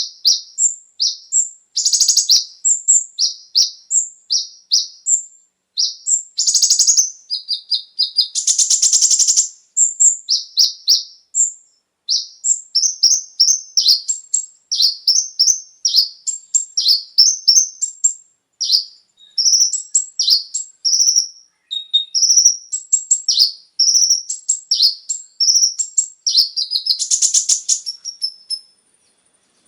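Kolibri ninja (konin) sunbird singing a fast, almost unbroken string of short high chirps and twitters. It is broken by a few dense, buzzy trills, about two seconds in, around eight to nine seconds in, and near the end.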